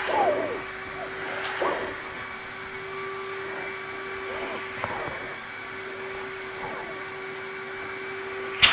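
VAX V-020 multifunction vacuum cleaner's motor running with a steady whine, with short irregular sounds over it and a sharp click near the end.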